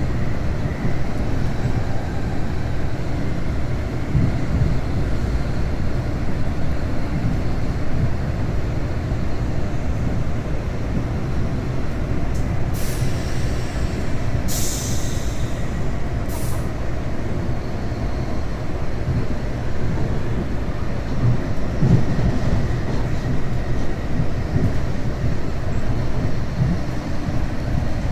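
Passenger train running at speed, heard from inside the carriage: a steady low rumble of wheels on track. About halfway through, a few short bursts of hissing cut in and stop.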